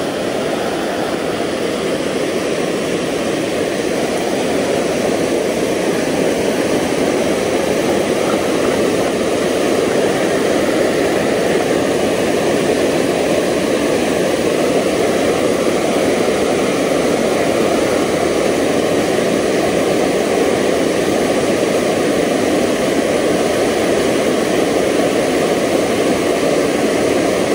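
Steady rushing of creek water, a loud even roar with no change.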